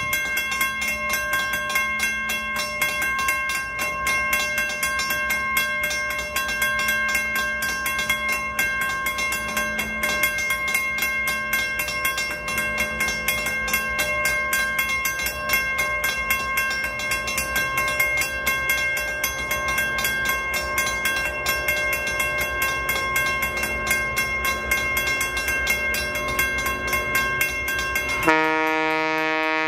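Train running along the track, a dense rattling rail noise under a steady high-pitched tone that holds throughout. Near the end it cuts suddenly to brass music.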